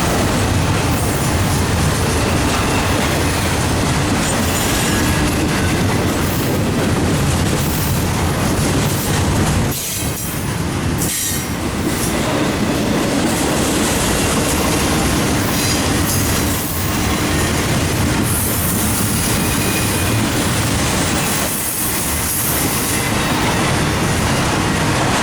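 Norfolk Southern intermodal freight cars rolling past, a steady loud noise of steel wheels on rail. The noise briefly drops about ten and eleven seconds in.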